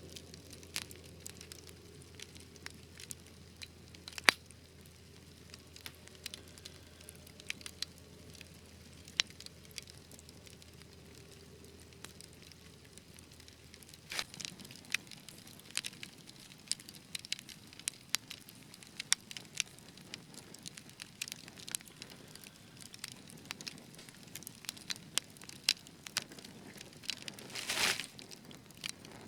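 Fireplace fire crackling, with irregular sharp snaps and pops over a low hiss. There is one loud pop about four seconds in, the pops come more often in the second half, and a brief hiss comes near the end.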